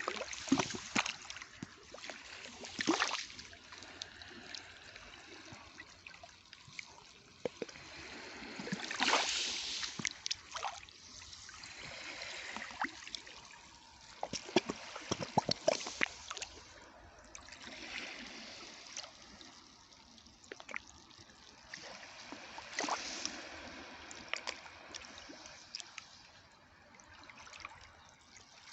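Sea waves washing ashore, swelling every few seconds and then draining back with trickling water and many small sharp clicks.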